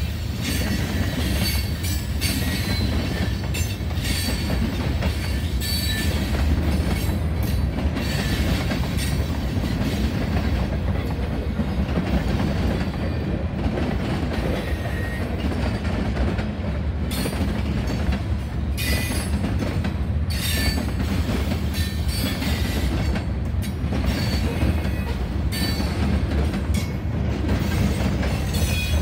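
Freight train of tank cars rolling past close by: a steady low rumble of wheels on the rails, with frequent short, sharp metallic clicks and squeals from the wheels.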